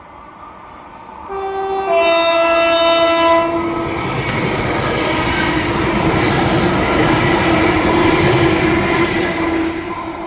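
Greater Anglia electric multiple-unit train sounding a two-tone horn about a second in, a short higher note then a longer lower one. It then runs past at speed, its wheels and running noise loud for several seconds before fading near the end.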